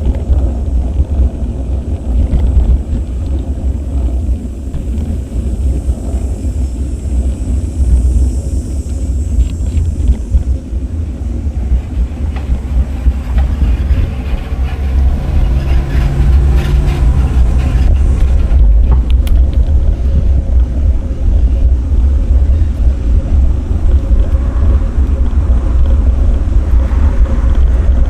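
Steady low wind rumble on an action camera's microphone while cycling, with a motor vehicle passing about halfway through.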